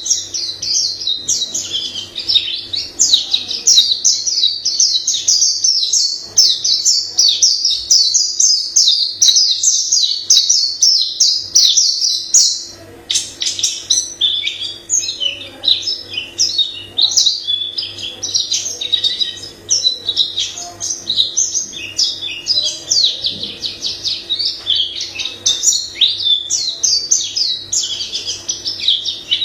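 A white-eye singing a long, rapid, high-pitched warbling song of varied phrases with hardly a pause, breaking off briefly about twelve seconds in before carrying on.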